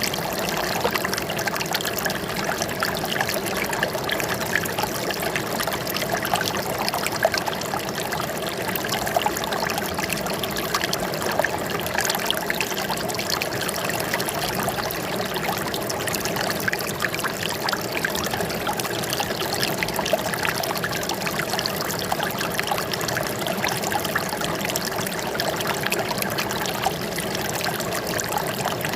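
Running water trickling and splashing steadily, with many small close splashes over an even rush.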